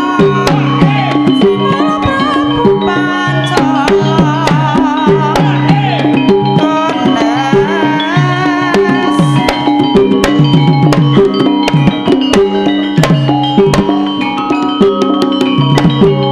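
Javanese gamelan music for a lengger dance: kendang hand drums play a busy, steady rhythm over sustained pitched tones and a wavering melodic line.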